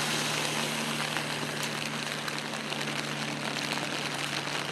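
A vehicle engine idling with a steady low hum under moderate rain, the rain an even hiss with faint patter.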